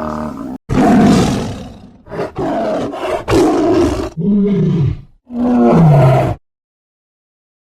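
A big cat roaring and growling: a string of about six loud, rough calls, the last two sliding down in pitch.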